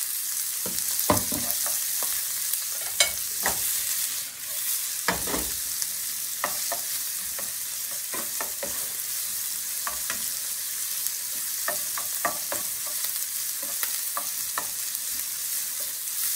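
Sliced onion and garlic sizzling in olive oil in a frying pan, with a spatula stirring them and knocking against the pan now and then.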